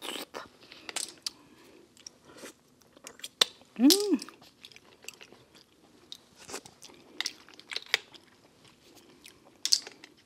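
Close-miked chewing of steamed clams, with scattered light clicks as the clam shells are handled and picked apart. About four seconds in comes a short hummed "mm" that rises and falls.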